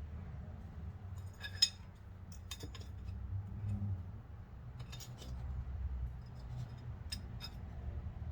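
Scattered light metallic clicks and clinks of brake parts and hand tools being handled, with one sharper click about one and a half seconds in, over a low steady rumble.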